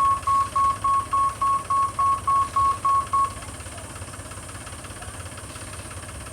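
Electronic beeping: one high tone pulsing evenly about three times a second, stopping about three seconds in, over a low steady rumble.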